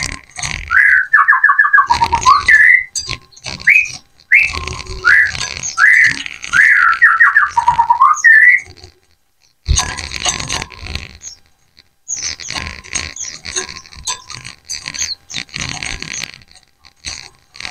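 A flock of white-eyes (pleci) calling over one another: a run of short upward-sweeping chirps for the first eight seconds or so, then, after a brief pause, dense high twittering.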